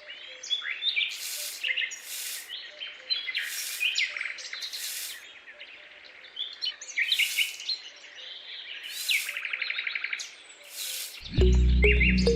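Birds chirping: many short, high calls and quick glides, with a fast trill about nine seconds in. Background music comes back in near the end.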